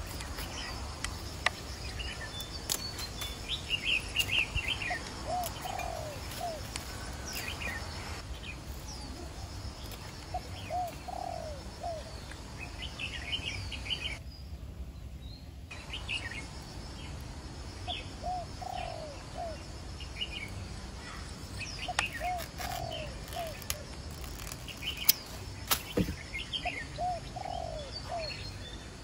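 Birds calling: a repeating phrase of three or four short rising-and-falling notes about every five seconds, with clusters of higher chirps between, over a steady hiss. A few sharp clicks stand out, one louder near the end.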